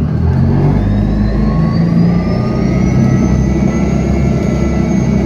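Mercedes-Benz city bus engine running under load as the bus pulls away, with a heavy low rumble and a thin whine that rises in pitch from about a second in and then holds steady.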